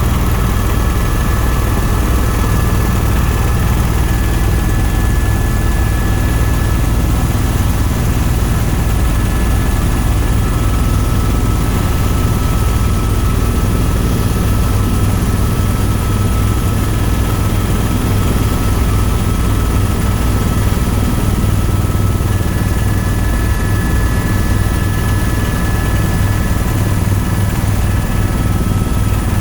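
Tour helicopter running steadily: a deep, even rotor drone with a thin, steady high turbine whine over it.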